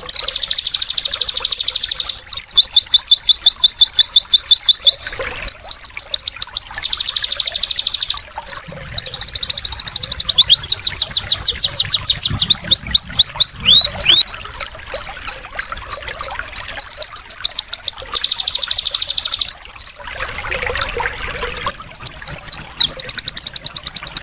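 White-eye (pleci) song: loud, rapid high-pitched trills and chattering sweeps, repeated with hardly a break. Soft babbling water shows through in short gaps about five seconds in and again near the end.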